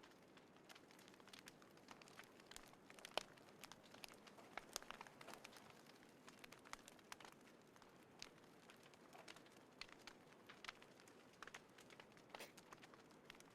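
Small wood fire in a folding fire pit, crackling faintly with irregular sharp pops over a soft hiss.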